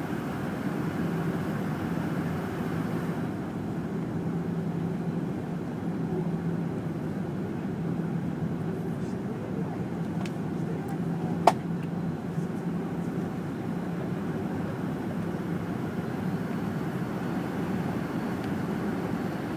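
Fokker 100 cabin noise: a steady hum and rush from the rear-mounted Rolls-Royce Tay turbofans, whose higher hiss drops away about three seconds in. A single sharp click about halfway through.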